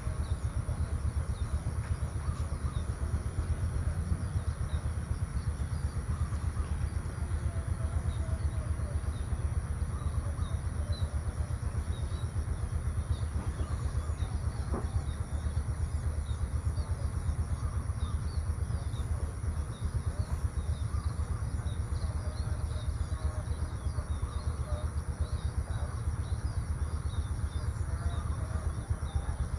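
Outdoor rural ambience: a steady low rumble with scattered faint bird chirps and a constant high-pitched hum.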